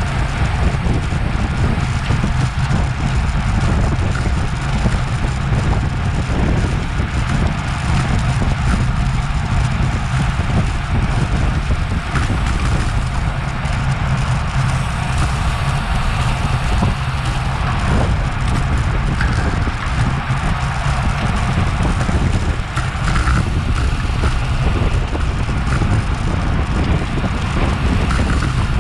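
Steady, loud wind rumble on a Garmin VIRB action camera's microphone as a road bike rides at race speed, with rushing air and road noise from the tyres.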